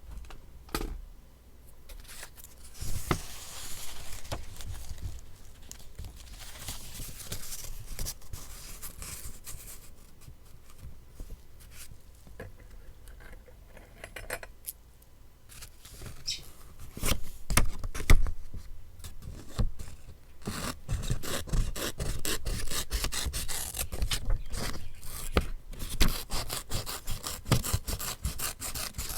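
Paper being handled and rubbed during collage journaling: drawn-out scraping rubs, then a dense run of short rustles and clicks in the last third.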